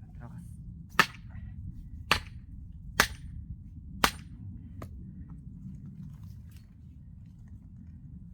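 Axe blows on a knotty, green oak log: four sharp strikes about a second apart, then a lighter knock.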